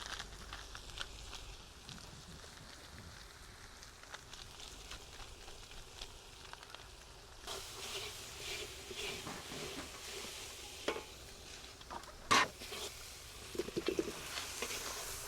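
Food sizzling in a cooking pot as it is stirred, with scrapes and sharp knocks of the spoon against the pot. The sizzling gets louder about halfway through.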